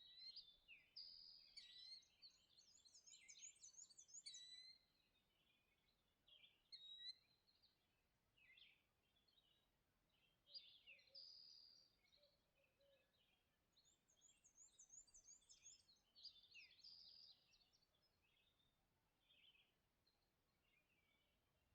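Several songbirds singing faintly in a dawn chorus, with overlapping high-pitched phrases, short down-slurred notes and quick warbling trills, broken by brief pauses.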